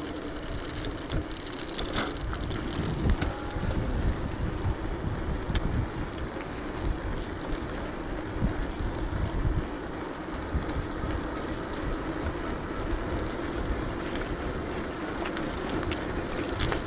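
Wind buffeting the microphone of an action camera on a moving electric bike, with a steady low rumble from the ride and a few faint clicks.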